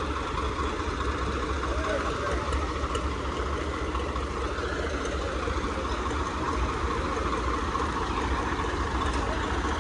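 Tractor diesel engines running steadily, a continuous low rumble, with a crowd's voices in the background.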